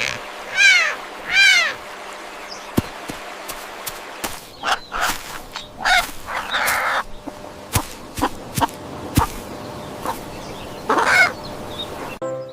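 Farm poultry calling: two loud calls that rise and fall in pitch in the first two seconds, then scattered shorter calls and sharp clicks, with another loud call near the end.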